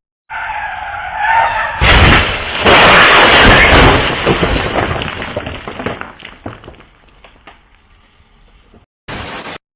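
A car crash: a high wavering squeal, then a loud impact about two seconds in and a heavier one right after, followed by crunching and scattering debris that dies away over a few seconds.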